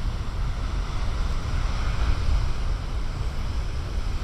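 Big ocean waves breaking and washing onto the beach, a rush of surf that swells about two seconds in, with wind buffeting the microphone as a low rumble.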